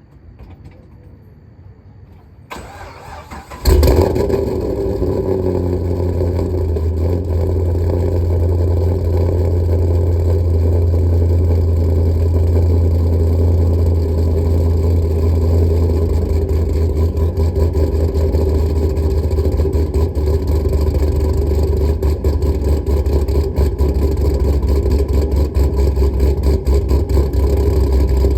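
Stage 4 modified Camaro SS V8 cold-starting: about a second of starter cranking, then the engine catches with a loud flare and settles into a loud idle. The idle has an uneven, choppy beat that becomes more pronounced in the second half.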